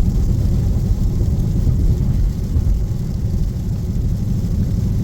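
Inside a Dodge Scat Pack's cabin at a steady highway cruise: a continuous low drone of engine and road, with a faint hiss of tyres on wet pavement.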